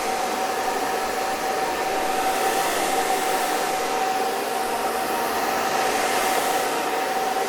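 Hair dryer running steadily: a constant rush of air with a steady motor whine held on one pitch.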